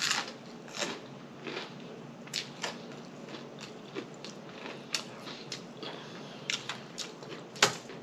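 A person chewing food with lip smacking, in irregular short clicks and smacks.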